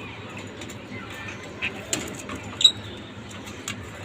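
Pet lovebirds chirping: three short, sharp chirps come about one and a half to two and a half seconds in, over a steady low hiss.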